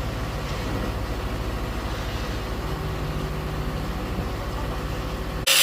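A large vehicle's engine running steadily with a low rumble. It cuts off abruptly just before the end.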